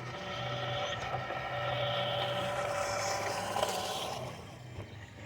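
Electric motor and gearbox of a radio-controlled truck whining steadily as it drives, cutting out about four seconds in.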